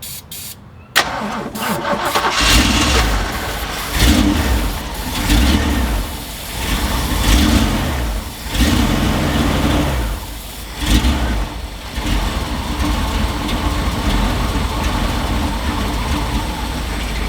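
Old Jeep truck engine cranking on the starter and firing on carb cleaner, starting suddenly about a second in and running in uneven surges before settling into steadier cranking. It fires only on the cleaner because no fuel is coming through from the tank.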